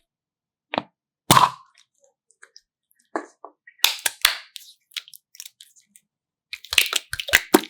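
Sharp crackling clicks and taps from something being handled up close, in short clusters with dead silence between: one loud crack about a second and a half in, a group near the middle, and a dense run of clicks near the end.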